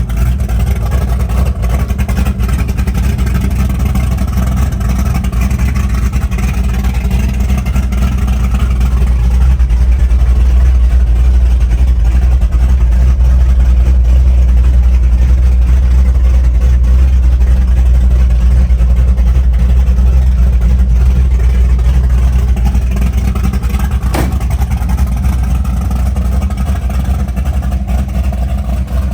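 Ford 460 big-block V8 with a high-lift cam and headers, running with a deep, steady rumble. It grows louder about a third of the way in and eases off again near the end.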